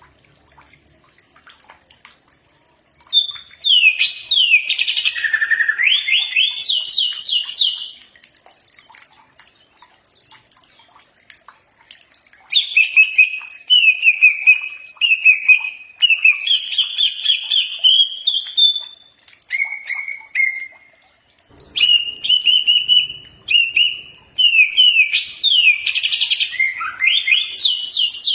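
Cucak ijo (greater green leafbird) singing: phrases of a few seconds each of varied whistled notes and fast rising trills, separated by short pauses.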